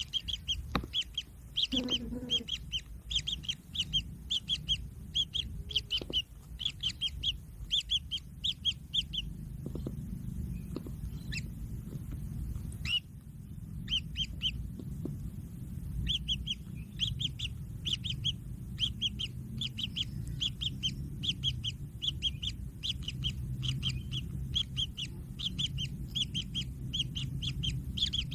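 Kingfisher chicks giving short, high, repeated begging calls, about two to three a second, which stop for a few seconds in the middle and then resume. A steady low rumble runs underneath.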